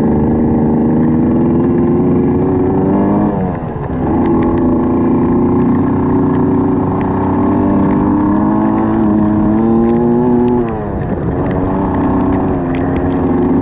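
An engine running steadily. Its pitch falls quickly twice and then picks up again.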